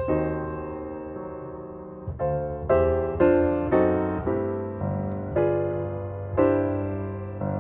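Background piano music: slow chords and short runs of notes, each struck and left to fade.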